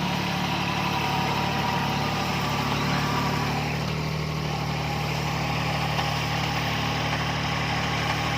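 Mini tractor engine running steadily, with a slight shift in its tone about four seconds in.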